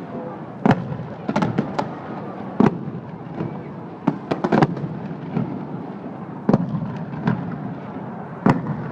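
Aerial fireworks shells bursting, a string of sharp bangs at uneven intervals, some in quick clusters, over a steady background hum of an outdoor crowd.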